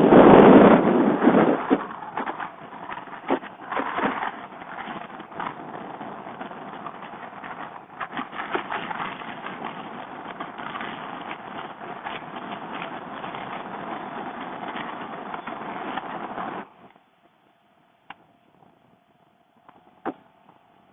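Wind rushing over a motorcycle rider's helmet microphone at speed, loudest in the first second or two, then steady. It cuts off suddenly near the end, leaving near quiet with a couple of faint clicks.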